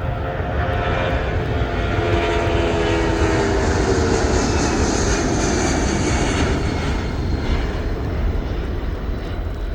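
A fixed-wing aircraft passing by, its loud rushing engine noise building to a peak in the middle and easing off, with engine tones sliding down in pitch as it goes past.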